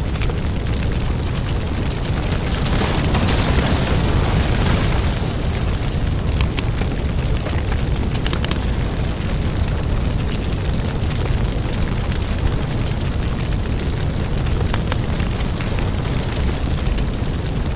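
Wood fire burning in a fireplace: a steady low roar of flames with scattered crackles and pops, swelling briefly a few seconds in.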